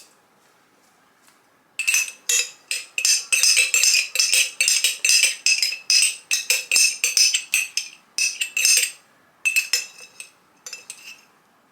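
A metal utensil clinking and scraping quickly against a container, scraping out the last of the green seasoning. The strokes start after a quiet second or so and come in fast runs with short breaks.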